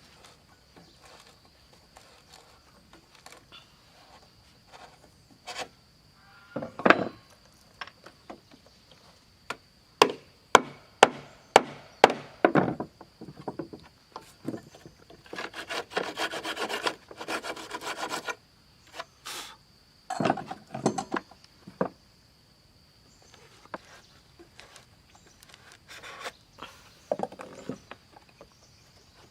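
Wood being worked with hand tools: scattered sharp knocks and taps, and for a couple of seconds past the middle a run of rapid scraping strokes like a handsaw or rasp on wood.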